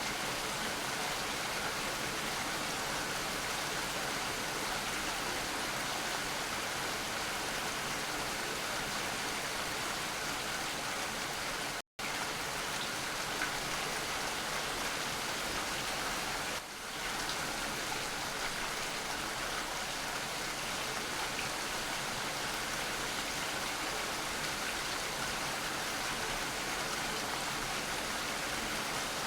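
Steady rain falling, an even hiss. It cuts out to silence for a split second about twelve seconds in, and dips briefly a few seconds later.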